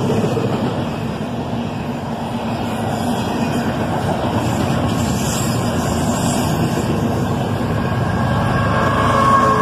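Intermodal freight cars rolling past: a steady rush and rumble of steel wheels on the rails. Thin high squealing tones come in near the end.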